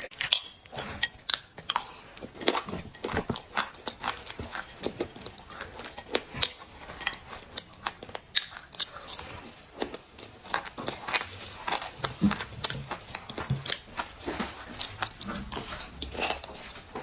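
A person biting and chewing crunchy clay close to the microphone: dense, irregular crackling crunches, several a second.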